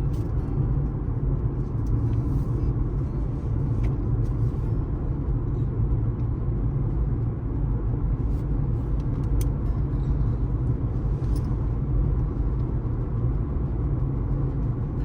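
Car driving at highway speed: a steady low rumble of tyre and road noise, with a few faint light ticks.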